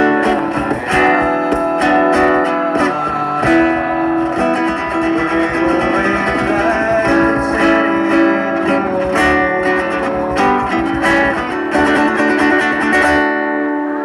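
Guitar music: chords strummed in a steady rhythm, the strumming stopping on a held chord near the end.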